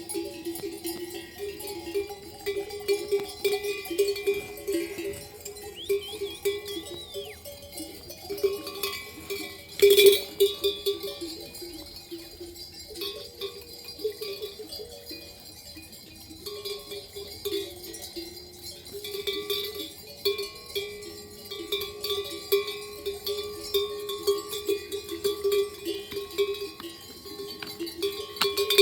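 Many livestock bells clanking unevenly and without pause as a flock of sheep moves about, with one louder clang about a third of the way through.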